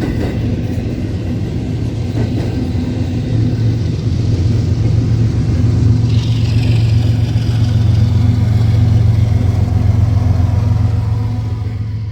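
Long intermodal freight train passing close by, with a mid-train distributed-power diesel locomotive running with a steady low drone over the rumble of wheels on rail. The drone swells to its loudest in the middle and eases toward the end.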